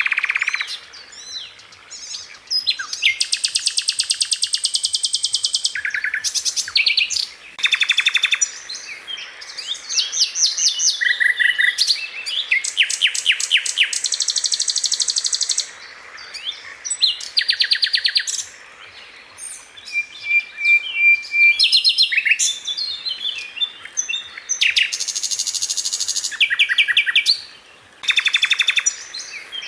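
Sikatan londo (a flycatcher) singing: fast, rapid-fire trills of sharp, high notes in bursts of one to two seconds, broken by short pauses.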